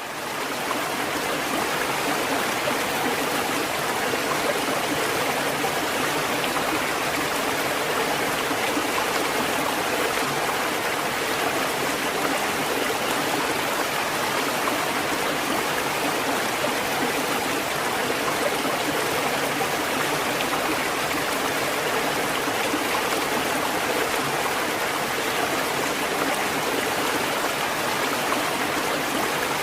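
Steady, even rush of running water, like a stream, with no rise and fall of breaking waves; it fades in at the very start.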